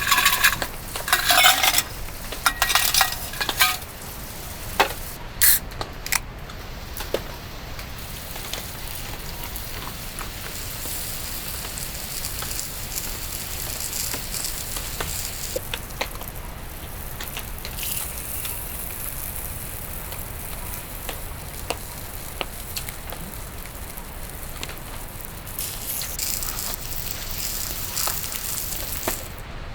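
Food sizzling in a hot pan, a steady hiss with small pops, after a few seconds of clattering handling at the start.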